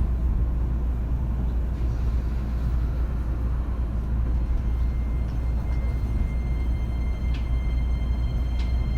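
Interior running sound of a JR East E231 series commuter train setting off: a steady low rumble from motors and wheels on rail. A steady high tone comes in about six seconds in, with a couple of faint clicks near the end.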